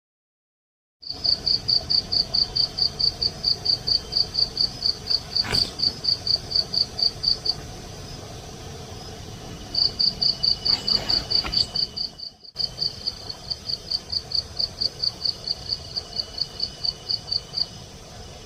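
Cricket-like insect chirping in a fast, even pulse of about six high chirps a second. It breaks off for about two seconds midway, then starts again. A fainter steady high insect trill runs beneath.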